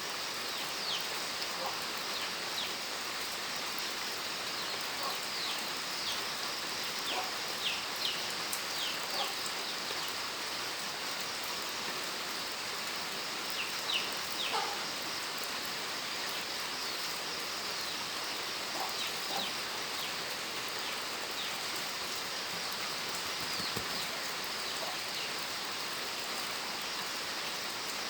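Steady rain falling, an even hiss of drops, with scattered short bird calls over it, most in the first ten seconds and again about halfway through.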